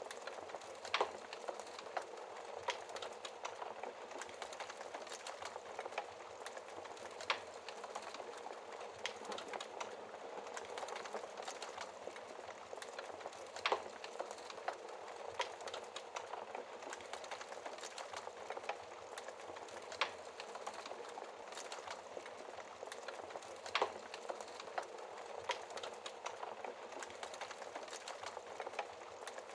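Wood fire burning in a fireplace: a steady hiss of flames with constant crackling and sharper pops every few seconds.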